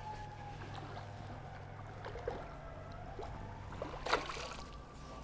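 Small knocks and light water sounds around a fishing kayak, with one sharper knock about four seconds in, over a steady low hum and a faint wavering whine.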